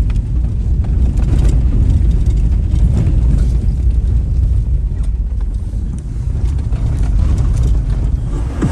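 Steady, loud low rumble of a moving vehicle on the road, mixed with wind noise on the microphone.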